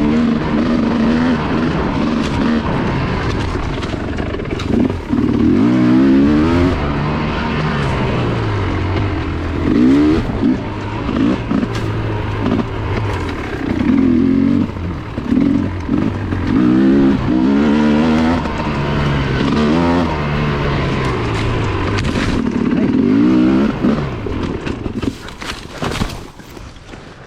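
Enduro dirt bike engine revving in repeated bursts, its pitch rising and falling as the throttle opens and closes, then dropping away near the end.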